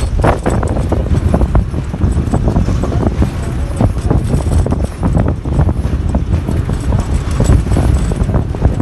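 Steady low rumble of wind buffeting the microphone, with irregular short knocks and clicks throughout.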